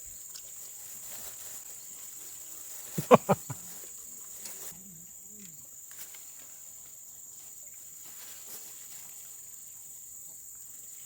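Steady high-pitched insect drone in forest ambience. About three seconds in, four short, loud sounds come in quick succession.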